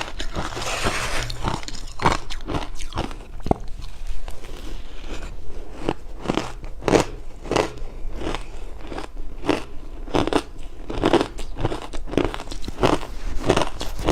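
Close-up crunching and chewing of ice cubes: a rapid series of sharp crunches, a few a second, as the ice is bitten and ground between the teeth.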